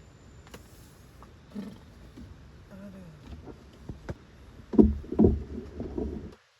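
Water splashing and sloshing, with the loudest splashes about five seconds in; the sound cuts off abruptly near the end.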